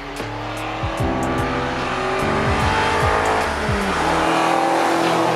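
Electronic music with a steady beat over a Suzuki Jimny's engine and aftermarket Forge Motorsport exhaust, the engine gaining revs under acceleration.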